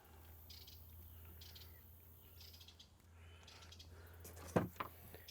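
Faint bird chirps, short and high-pitched, come every second or so over a low steady hum. About four and a half seconds in there is a sharp click, with a couple of lighter clicks after it.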